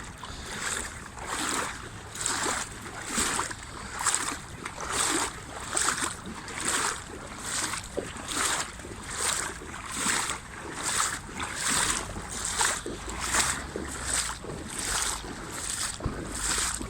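Legs in waders wading through flowing floodwater against the current, a regular swish and slosh with each step, a little more than one a second. A low wind rumble on the microphone joins in the last few seconds.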